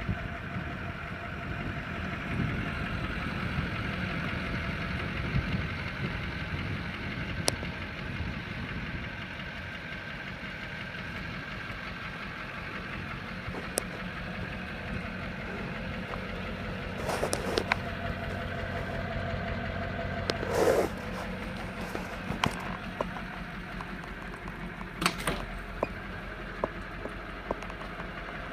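Diesel engine of a 2002 Chevy truck idling steadily. A few sharp clicks and short bursts of noise come partway through.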